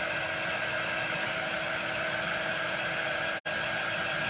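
Handheld hot-air dryer blowing steadily, drying freshly applied chalk paste on craft pieces. The sound cuts out for an instant about three and a half seconds in.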